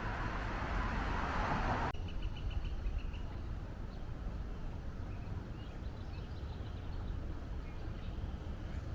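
A loud, even rushing noise that cuts off abruptly about two seconds in, followed by a steady low outdoor rumble with faint, short bird chirps repeating now and then.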